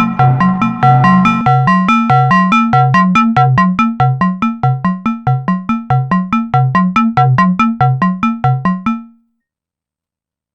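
Arturia MiniBrute 2 analog synthesizer playing a fast sequenced pattern of short, plucky notes, a repeating bass line with higher notes above it, about four notes a second. It stops suddenly about nine seconds in and silence follows.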